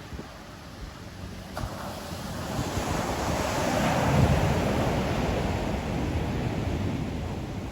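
Ocean waves breaking on the shore: a wave swells about two seconds in, crashes around four seconds and slowly washes out. Wind buffets the microphone with a low rumble.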